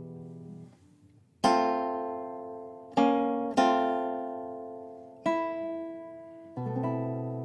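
Background music: a slow acoustic guitar piece, single plucked chords struck a few times and each left to ring and fade.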